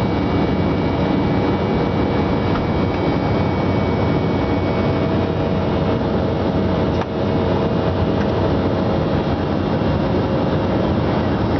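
Steady drone of an airliner cabin in the climb after take-off: jet engine and airflow noise with faint steady whines, dipping briefly about seven seconds in.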